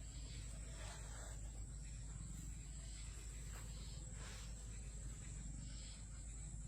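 Quiet outdoor background: a steady high-pitched insect drone, like crickets, over a low steady rumble.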